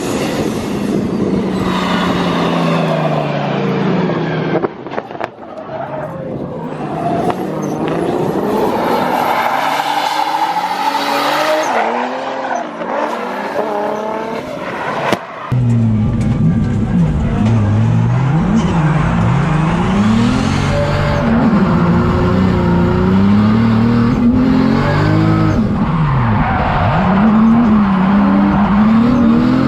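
Drift car engine revving hard, its pitch rising and falling again and again as the throttle is worked, with tire squeal from the sliding car. The sound changes abruptly about five seconds in and again about halfway through, where a deeper, stronger engine note takes over.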